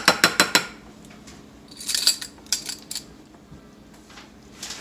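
A spoon clinking and tapping against a bowl: a quick run of about five taps at the start, more clinks and scraping two to three seconds in, and a few more near the end.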